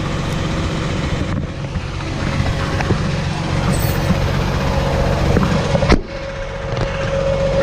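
Freightliner rollback tow truck's engine running steadily at idle, with a few light metallic clicks and one sharp clank about six seconds in. After the clank a steady hum grows louder near the end.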